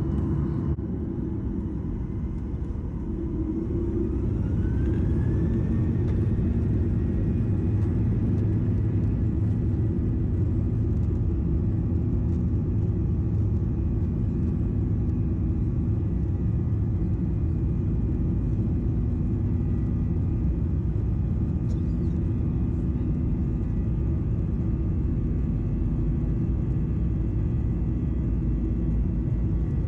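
Jet airliner engines spooling up to takeoff thrust, heard inside the cabin: a whine rising in pitch over the first few seconds, then holding steady over a loud, even rumble.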